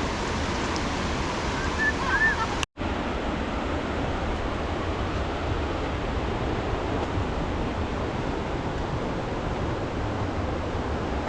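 Steady rushing noise of a river in heavy flood, broken by an abrupt cut about a third of the way in.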